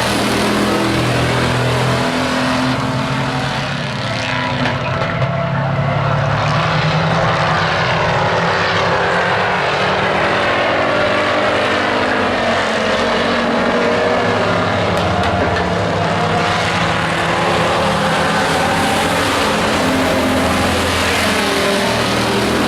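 Several stock-class race trucks running together around an oval, their engines rising and falling in pitch as they accelerate, lift and pass, a steady loud blend of many engines.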